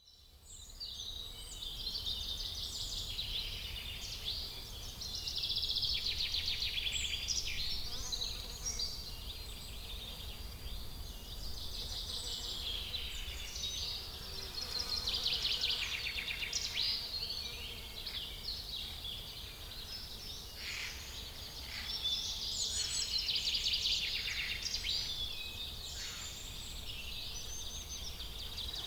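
Songbirds chirping and trilling in a busy outdoor chorus, over a faint low rumble.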